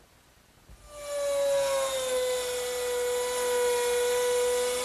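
Electric router with a 1/4 inch round nose bit starts about a second in and runs with a steady high whine, its pitch dipping slightly and coming back up, as it cuts a straight slot in wood.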